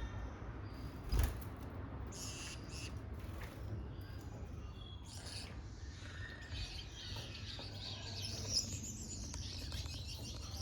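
Small aviary birds, finches in a mixed aviary, chirping: scattered short calls at first, thickening into dense twittering in the second half. A low thump about a second in.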